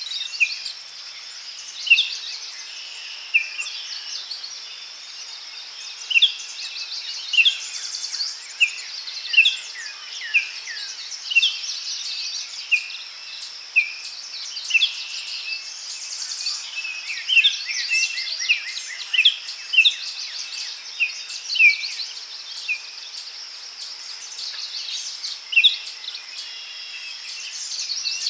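Daytime forest ambience: birds giving many short, repeated down-slurred chirps over a steady high-pitched insect drone.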